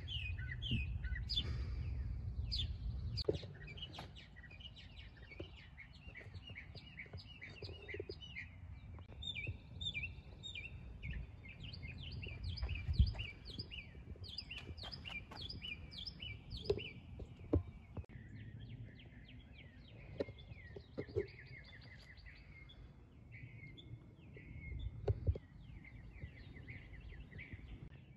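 Small songbirds chirping in quick runs of repeated short notes, over a low rumble, with a few sharp knocks, the loudest about halfway through.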